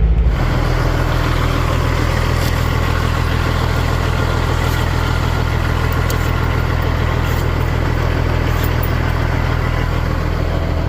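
Kenworth W900 semi truck's diesel engine running steadily, heard from inside the truck, with a few faint high ticks now and then.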